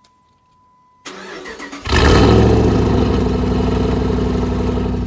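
Truck engine cranked by the starter about a second in, catching just under a second later and settling into a loud, steady idle through a newly fitted aftermarket exhaust. A faint steady electronic tone sounds before the cranking and stops when it begins.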